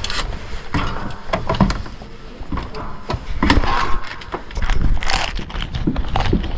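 Irregular knocks, clicks and clatter, with short bursts of rustling between them.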